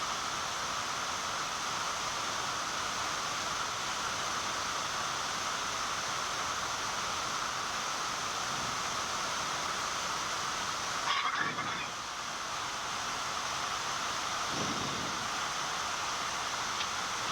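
Steady flight-deck noise of a Boeing 787 in cruise, an even hiss without speech. About eleven seconds in there is a short, louder noise.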